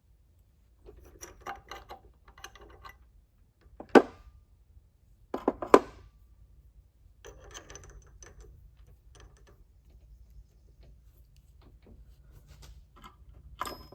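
Metal tools and parts being handled at a workbench: light rustling and clicks, a sharp clank about four seconds in and a quick clatter of knocks a little later.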